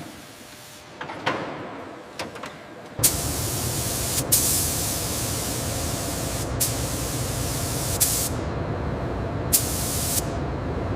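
A loud, steady spraying hiss starts about three seconds in and runs on without a break, with a few short sharper bursts in it. It comes after a few faint clicks.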